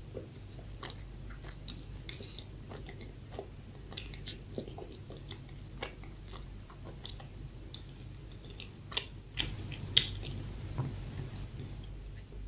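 A person chewing soft bread close to the microphone, with many small wet mouth clicks and smacks and a louder click about ten seconds in.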